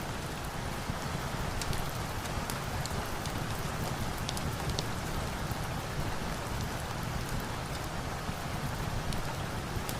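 Steady rain falling: a constant, even hiss with scattered small sharp ticks.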